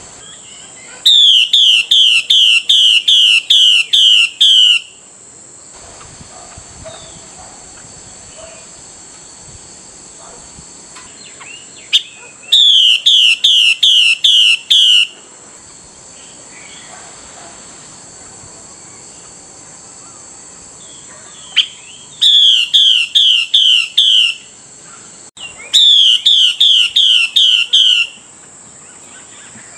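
Female Chinese hwamei giving its 'xùy' call, the call hen birds use to rouse males to sing: four bursts of quickly repeated, high, downward-slurred notes, each burst two to four seconds long.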